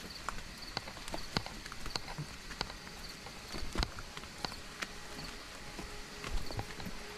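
Footsteps on a forest trail: irregular crunching and knocking steps, about two a second. Faint short high chirps recur in the background.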